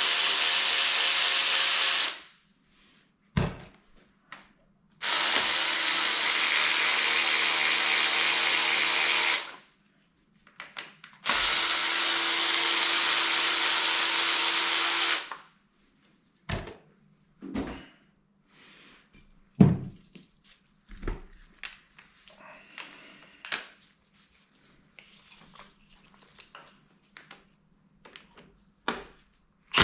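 Electric power tool, a drill-driver type, run in three steady bursts of about four seconds each while undoing fasteners on an engine being stripped down. After the bursts come scattered light knocks and clicks.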